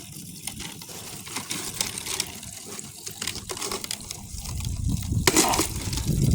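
A weak stream of water running from a pipe into a one-gallon container as it fills. A sharp knock about five seconds in, and a low rumble building near the end.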